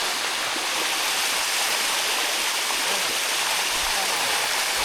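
Water cascading steadily over a limestone waterfall, a constant rushing hiss with no break.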